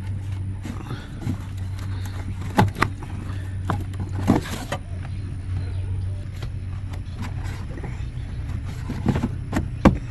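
A steady low mechanical hum, with scattered sharp clicks and knocks of parts or tools being handled.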